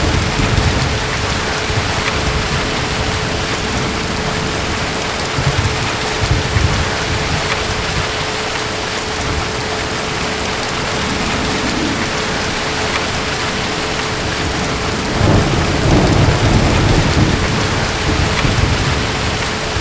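Steady heavy rain with rumbles of distant thunder, the strongest rolling in about three quarters of the way through.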